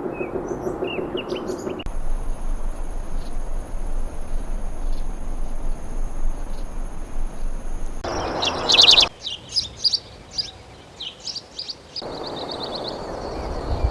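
Wild birds chirping and calling in a series of spliced recordings. The soundscape changes abruptly several times: a low pulsing call with a few chirps, then a stretch of steady high-pitched tones, then a loud burst of rapid trilling notes about eight seconds in, scattered chirps and a fast trill near the end.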